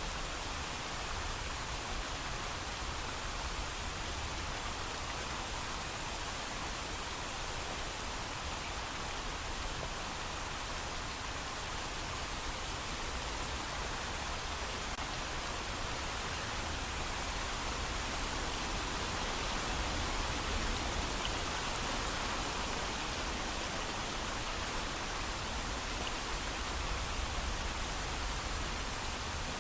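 Steady heavy rain, a continuous even hiss of rainfall with no thunder, swelling slightly in the middle.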